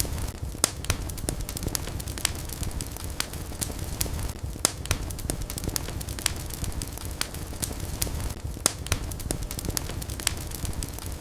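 Wood fire burning in a fireplace, with a steady low rumble of flames and frequent sharp, irregular crackles and pops.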